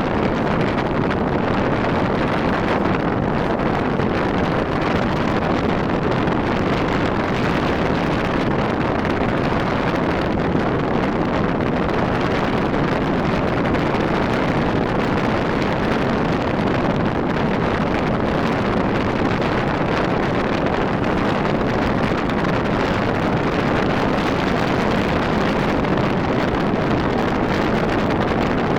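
Steady wind rushing over the microphone, mixed with road and engine noise, while riding a Rusi RFI 175 motorcycle at speed.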